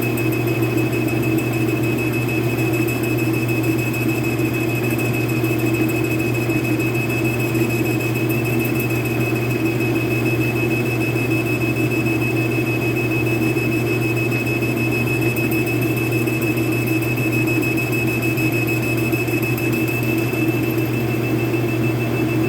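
Metal lathe running steadily, a constant low hum with a thin high whine over it.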